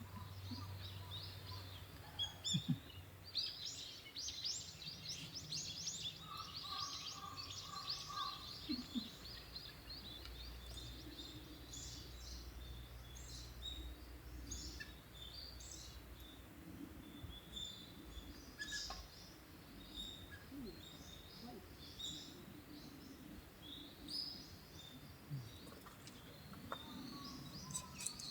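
Small birds chirping, with many short, high calls scattered and overlapping throughout, over a faint outdoor background.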